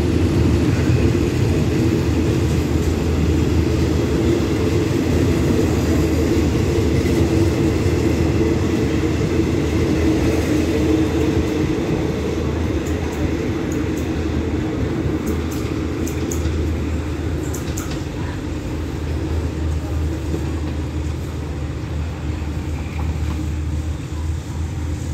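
Passenger train coaches rolling out along the rails, a steady low rumble that slowly fades as the train pulls away. A few light clicks sound about halfway through.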